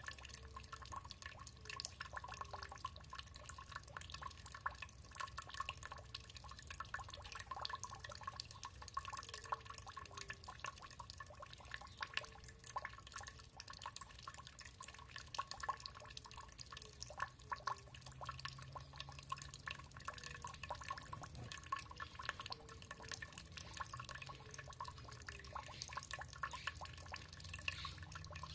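Water dripping and trickling: a rapid, irregular patter of small drips over a low, steady water rush.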